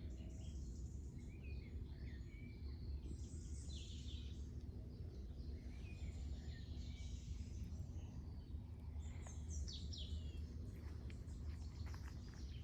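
Songbirds chirping and calling on and off in short high notes, with a busier flurry of chirps about two-thirds of the way through, over a steady low rumble of outdoor background noise.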